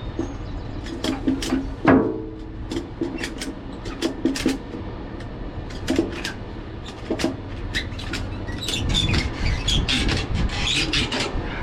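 A scatter of knocks and clicks, with one louder knock about two seconds in, over a steady low rumble.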